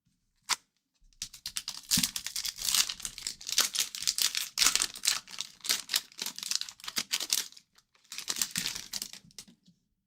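An O-Pee-Chee hockey card pack's wrapper being torn open and crinkled: a sharp click, then a long stretch of crackling from about a second in, and a shorter burst near the end.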